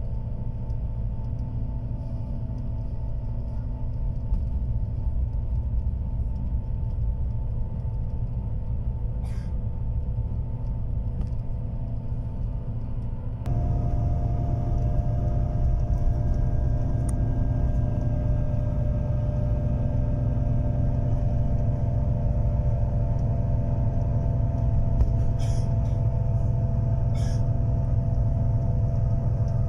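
Bus running with a steady low rumble and a constant hum. The sound steps up abruptly and stays louder from about halfway through.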